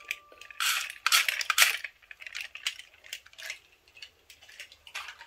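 Plastic Tomy toy train cars clicking and clattering as they are handled and coupled together. There is a run of rattling in the first couple of seconds, then scattered small clicks.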